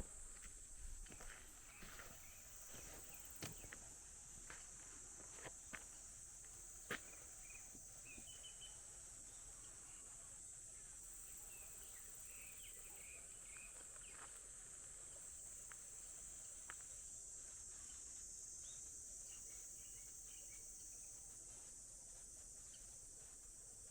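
Faint steady high-pitched insect chorus, with scattered sharp clicks and knocks over the first several seconds and a few faint chirps in the middle.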